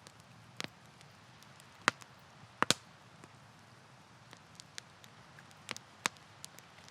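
Campfire crackling: a handful of sharp pops from burning wood, irregularly spaced, the loudest a close pair about two and a half seconds in, over a faint steady hiss.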